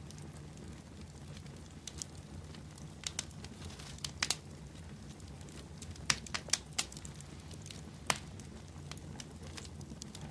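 Wood fire burning, with sharp, irregular pops and crackles over a low steady rumble of the flames.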